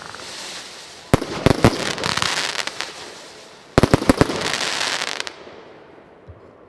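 The 'Hurricane' consumer firework firing: a cluster of sharp shots about a second in and another just before four seconds. Each cluster is followed by a dense crackling that dies away, fading out near the end.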